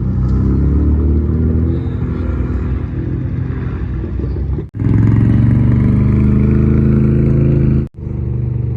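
Car engines with deep exhaust notes running and revving, the pitch climbing in the first second or so. The sound breaks off abruptly twice and picks up again.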